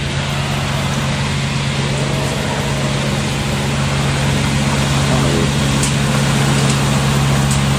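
A motor engine running steadily, a constant low hum with a few faint clicks near the end.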